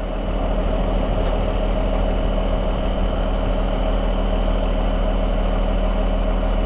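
Heavy truck engine running steadily with a steady whine above it, the truck's hydraulics powering the Landoll trailer's sliding axle as it rolls back under the load.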